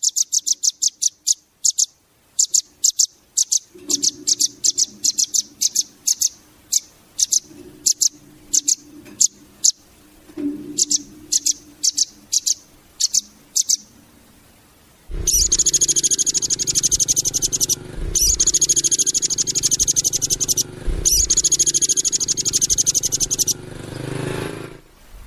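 Velvet-fronted nuthatch singing: fast, high-pitched trills of repeated chip notes. Partway through they break into a run of separate notes and pause briefly, then long dense trills resume over a low rumble.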